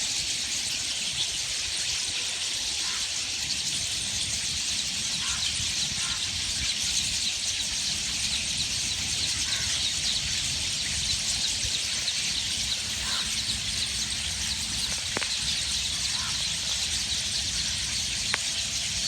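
Dense chorus of many small birds chirping together in trees, a steady high twittering, with one lower call repeating every two to three seconds.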